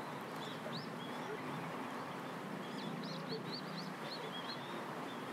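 Small birds chirping, a quick run of many short, high calls over a steady outdoor background noise.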